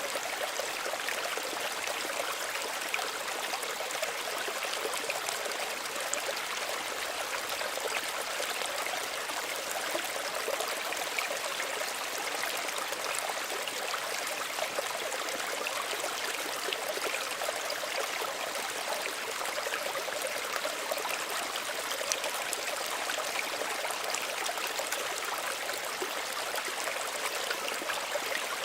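Small stream running and trickling steadily over stones, an even babbling with fine splashy detail.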